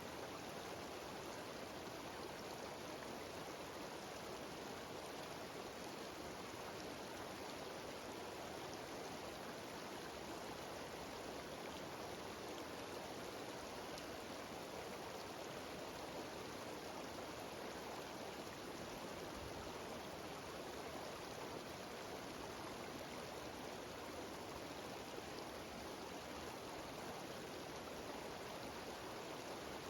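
Cascading mountain stream and waterfall: a steady, even rush of running water.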